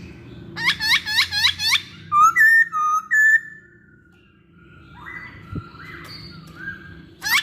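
Poksay Hongkong (a laughingthrush) singing loud, clear whistled phrases: a fast run of five quick hooked notes, then several loud sustained whistles. After a softer pause, a new fast run begins near the end.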